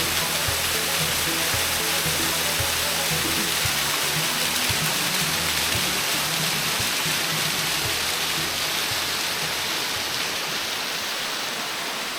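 Waterfall rushing steadily, with background music playing over it. The music thins out toward the end.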